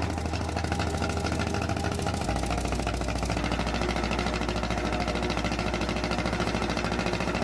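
Jacobs R-755 radial aircraft engine running, with rapid, even firing pulses over a low steady drone that drops in pitch a little over two seconds in.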